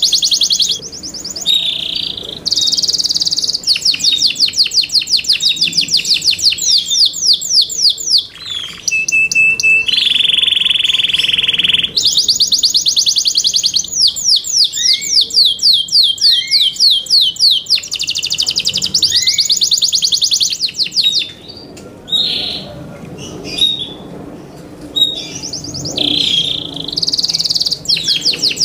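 Yorkshire canary song: long runs of fast, evenly repeated high trills, with a lower, steady held roll about ten seconds in and a broken stretch of short chirps and pauses about three-quarters of the way through.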